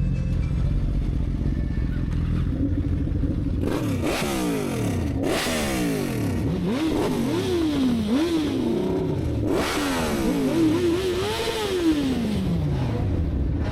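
Lexus GS sedan's engine idling, then revved hard over and over from about four seconds in, its pitch climbing and falling back several times before settling toward idle near the end. Loud.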